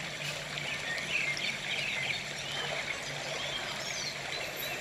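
Small birds chirping in short, high calls over a steady background hiss, with a faint low hum underneath.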